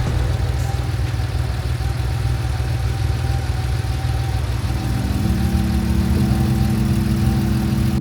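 Porsche engine running steadily with a low rumble. Steady music notes fade in over it about five seconds in.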